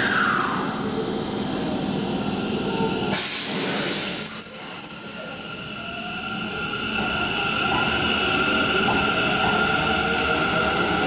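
Hanshin 1000 series electric train starting away from an underground station platform. A loud hiss of air comes about three seconds in, then a faint motor whine rises in pitch over a steady rumble as the train gathers speed.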